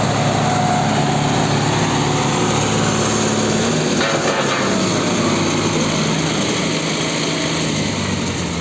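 Tractor diesel engines, a 55 hp Kubota and a 55 hp Solis, running hard under load while pulling against each other in a tug of war. A steady engine drone that shifts in pitch about four seconds in.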